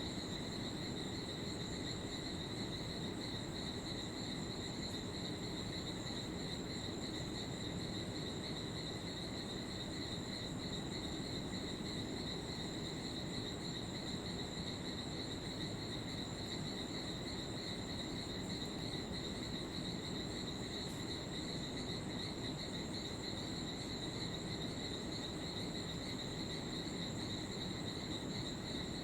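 Steady chorus of insects: a continuous high-pitched trill that holds unbroken, over a low even background hiss.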